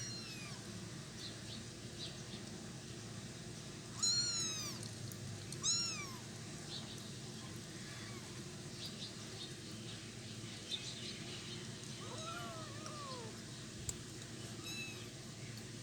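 Kittens mewing while they eat cat food: a handful of short, high, rising-then-falling mews a few seconds apart, the loudest two about four and six seconds in, with two overlapping mews near the end.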